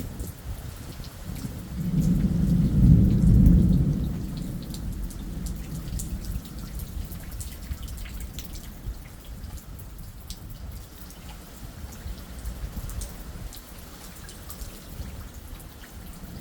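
A peal of thunder rumbling, swelling about two seconds in, loudest for a couple of seconds and then fading, over steady rain with scattered drips.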